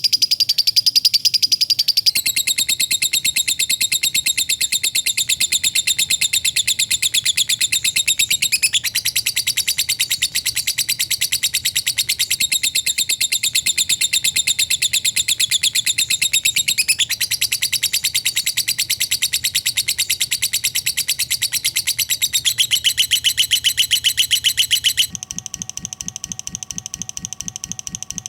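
Lovebird's 'ngekek': a long, rapid, high-pitched chattering trill with no break, stepping slightly in pitch a couple of times. About 25 seconds in it drops in loudness and changes to a different, lower chatter.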